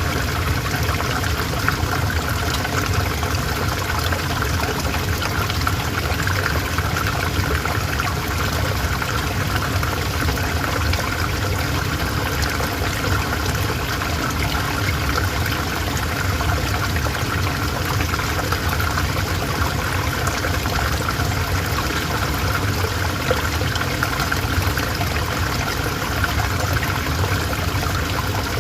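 River water flowing steadily, a continuous even rush and trickle of water.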